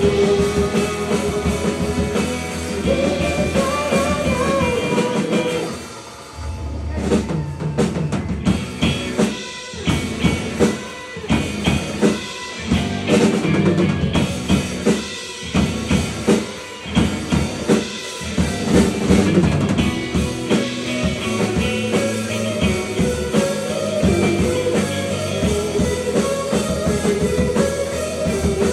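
Live rock band playing an instrumental break in the song: drum kit, bass and electric guitar. About six seconds in the band drops out briefly, then comes back in stop-start drum and band hits for about ten seconds before the full band plays on.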